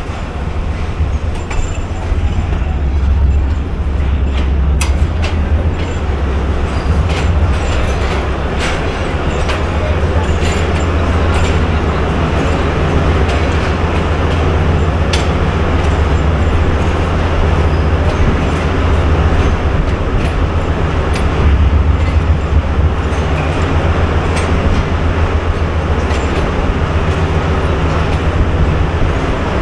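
Passenger train running at speed, heard from on board: a steady low rumble with scattered sharp clicks from the wheels on the track.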